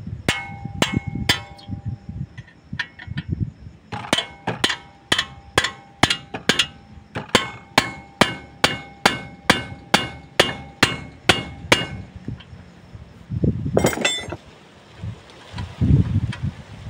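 Hammer striking metal, blow after blow, each strike ringing briefly; after a few scattered hits the blows settle into a steady run of about two a second, then stop, followed by a short clatter.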